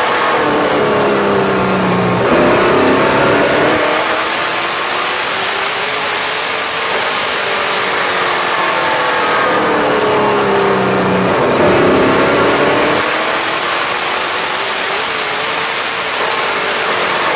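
Super Late Model stock car's V8 engine heard from inside the car at racing speed. The pitch drops as the driver lifts off into a turn, then climbs steadily under full throttle down the straight. This happens twice, once early and again about halfway through.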